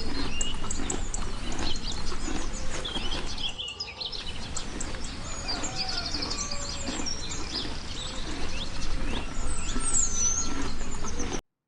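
Outdoor ambience of small birds chirping and twittering over a steady background hiss, ending in a sudden cut to silence shortly before the end.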